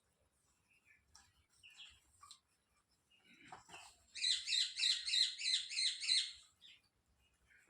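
Parrot calling: a few faint chirps, then about four seconds in a loud, rapid string of repeated high chirps lasting about two seconds.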